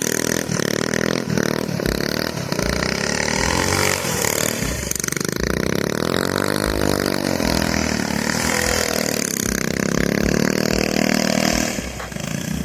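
Small single-cylinder mini bike engine, running on its new PZ19 round-slide carburetor, revving up and down repeatedly as the bike is ridden, with the pitch rising and falling several times. The engine note drops away near the end.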